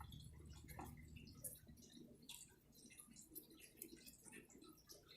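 Near silence with faint, irregular small ticks and clicks.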